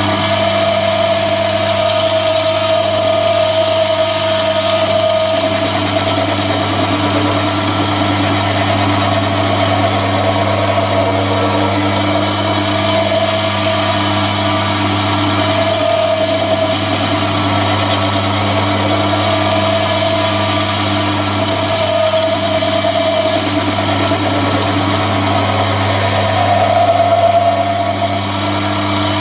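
Mini metal lathe running steadily while a high-speed steel tool faces off the rough end of a workpiece, a constant motor-and-gearing hum with a brief swell near the end.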